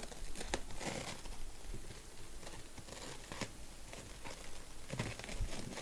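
Courier parcel packaging being handled and opened by hand, with irregular rustling and tearing sounds.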